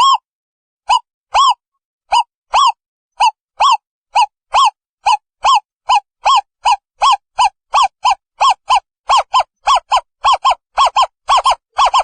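Owl calling: a long series of short hooting notes, each rising and falling in pitch, coming in pairs that quicken toward the end.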